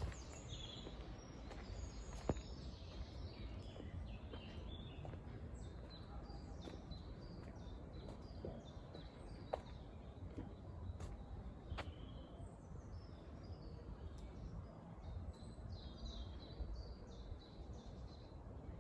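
Several birds singing and chirping in woodland, many short high calls overlapping, over a steady low background rumble, with a few sharp clicks.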